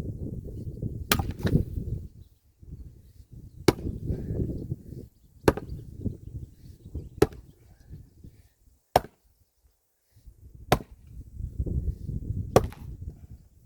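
Wood being split by hand with an axe: seven sharp, ringing strikes about every two seconds, over a low rumble.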